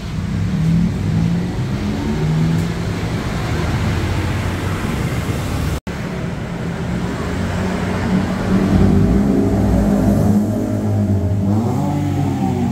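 Toyota Calya's engine running and revved up and down several times through its exhaust, the pitch rising and falling, with the revving strongest in the second half.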